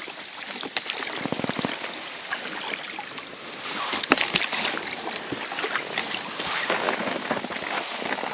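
Water sloshing and splashing around a small inflatable rowboat, with scattered clicks and knocks from fishing gear being handled on board.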